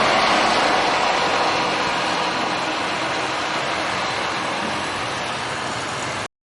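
Scania K400iB coach moving away: a steady rushing of engine and tyre noise that slowly fades, then cuts off suddenly near the end.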